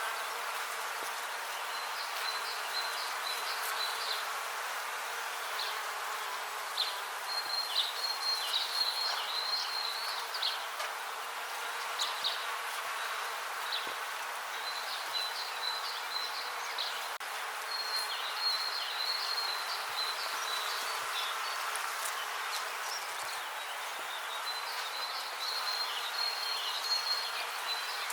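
Many bees buzzing, a steady hum, with spells of high chirping calls over it every few seconds.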